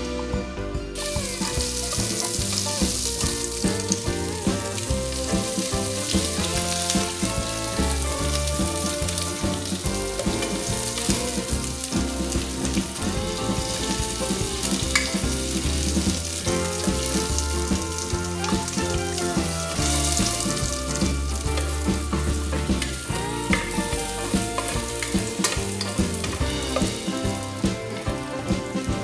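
Diced vegetables and sliced sausage frying in hot oil in a pan, a steady sizzle that starts about a second in as the pieces go into the oil, with the scrape of a spatula stirring them.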